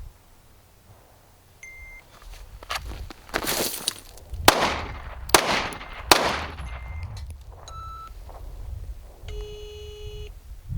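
Three gunshots about a second apart, each a sharp crack that dies away over open ground, between short ringing tones.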